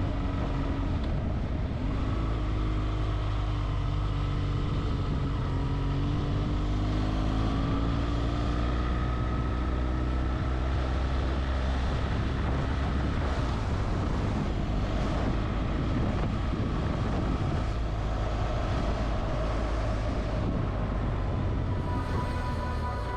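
Motorcycle engine running under way, its pitch slowly rising and falling with the throttle, over steady wind and road noise.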